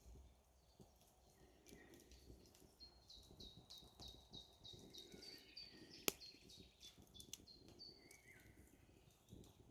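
A small bird singing faintly, a rapid series of short high notes at about four a second, starting about three seconds in and stopping near eight seconds. A single sharp snap about six seconds in is the loudest sound, over a low rustling background.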